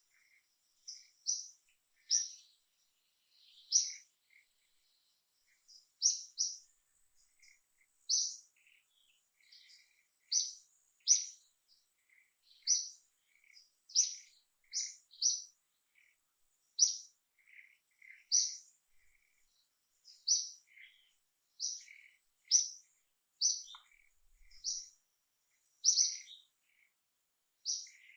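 A bird chirping repeatedly: short, high chirps about once a second, with softer, lower notes between them.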